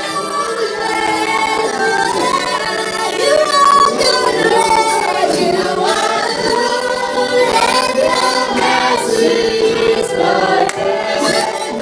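A group of voices singing a praise chant together.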